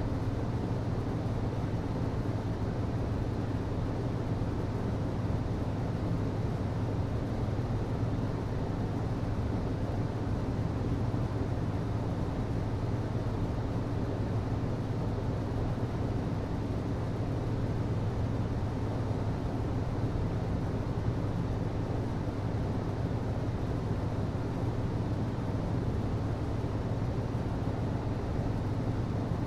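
HVAC system running steadily: an even low hum under a broad whoosh of moving air.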